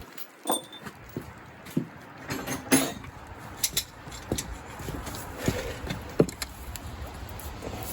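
Scattered metal clinks and knocks of hand tools and parts on a Case 188D diesel engine's bottom end during teardown, as the bearing caps are worked loose. There is a quick run of clatter a little over two seconds in and a sharp knock about six seconds in.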